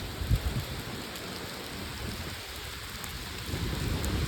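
Steady heavy rain with thunder rumbling low underneath, the rumble growing louder near the end.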